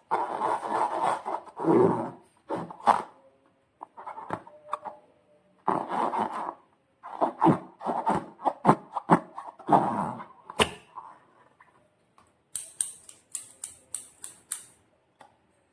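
Slime and balloon being handled close to the microphone: irregular bursts of squishing, sticky rustling and clicks with short pauses, then a quick run of about ten sharp clicks near the end.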